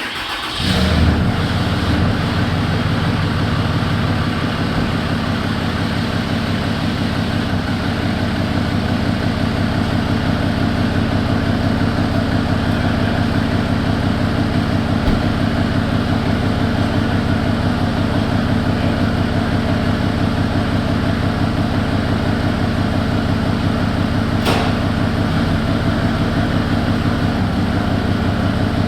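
Cummins 6.7 turbodiesel pickup engine starting, then settling into a steady idle. A single sharp click sounds late on.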